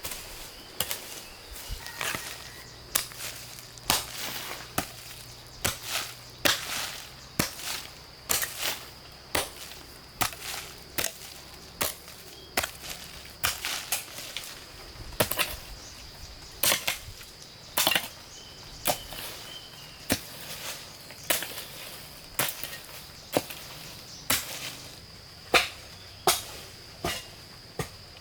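Repeated sharp blows of a tool on wood, as in chopping, coming irregularly about one to two a second, with a steady high-pitched tone underneath.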